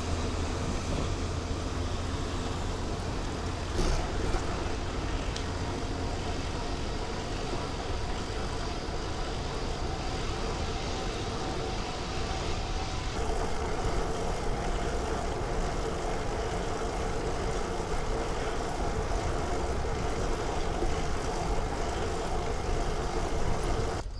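Steady road-traffic noise with a low rumble, with a slight shift in its hum about halfway through.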